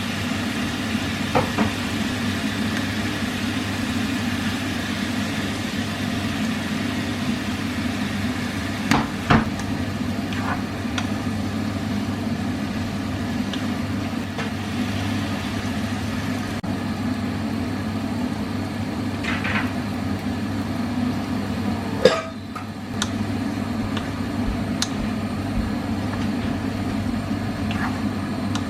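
A steady low mechanical hum with a few light clicks and knocks over it.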